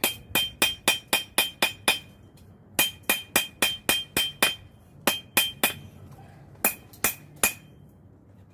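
Blacksmith's hammer striking hot steel on an anvil to draw out a knife blade. The blows come in quick runs of about four to five a second with short pauses between, and the anvil rings on the blows in the first runs. Fewer, sparser blows follow near the end, during a short heat.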